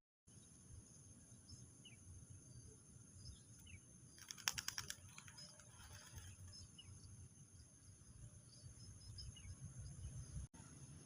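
Near silence with faint, short bird chirps here and there, and a quick burst of rapid clicks about four and a half seconds in.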